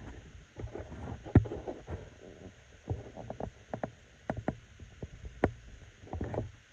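Irregular small clicks, taps and knocks of a plastic model locomotive and its wires being handled on a workbench, with a sharper knock about a second and a half in and another near five and a half seconds.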